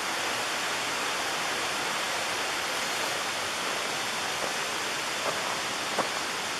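Steady rush of creek water flowing, with a couple of faint clicks near the end.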